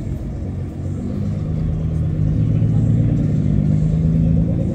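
Nissan GT-R R35's twin-turbo V6 running at low revs as the car pulls away slowly, the engine note growing louder as it comes closer.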